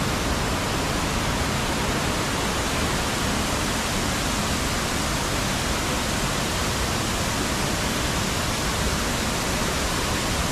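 Anagimala Ella waterfall pouring: a loud, steady rush of falling water.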